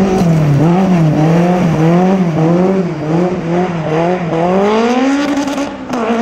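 Rally car engine under hard throttle, its note wavering up and down about twice a second, then rising steadily for about a second. Near the end it drops briefly and settles on a steady higher note.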